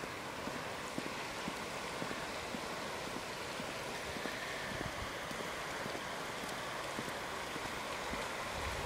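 Floodwater of a swollen river rushing, a steady hiss with many small splashes throughout.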